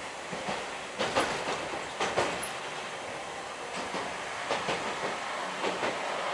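Hankai Tramway streetcar running along its track, heard from inside the car: a steady rolling rumble with wheels knocking over rail joints, mostly in quick pairs, several times.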